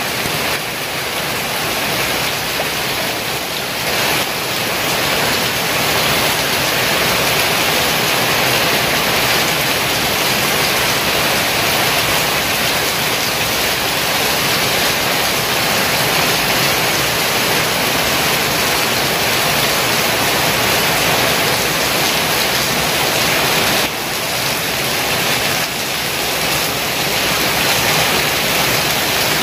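Heavy rain pouring down in a steady, dense hiss, with a brief dip in level about 24 seconds in.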